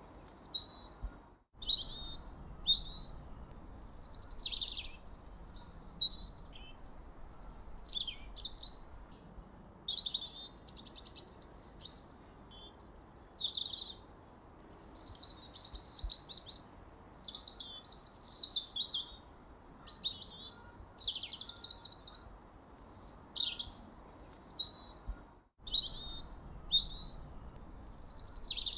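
Songbirds singing: a constant stream of short, high chirps and quick falling and trilled phrases over a faint hiss. Twice it cuts out for an instant.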